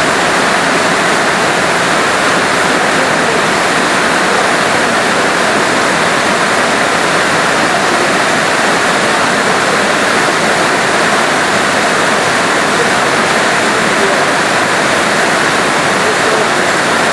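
Steady rushing water: a loud, unbroken wash of noise with no change in level.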